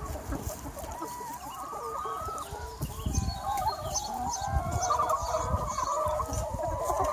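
A large free-range flock of hens clucking and chattering, many voices overlapping without a break, with a few low thumps about three and four and a half seconds in.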